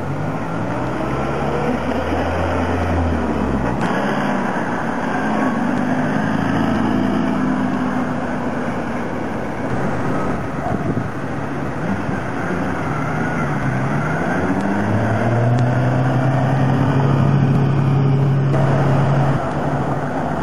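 Classic car engines running as the cars drive slowly past one after another, engine pitch rising and falling as they pull through the turn. The sound changes abruptly at cuts between clips. Near the end a steady low engine note holds for a few seconds.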